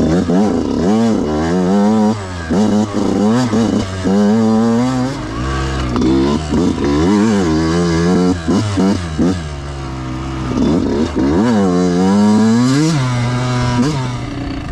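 Yamaha YZ125 two-stroke dirt bike engine revving up and down again and again through turns, climbing in pitch and dropping off about a dozen times. The bike is on new, very rich jetting that the rider thinks still has a lean pilot jet.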